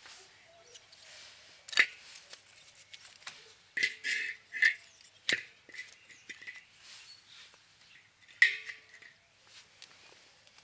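Firewood being split by hand: about five sharp wooden knocks and cracks, some with a brief hollow ring, the loudest about two seconds in and again near the end.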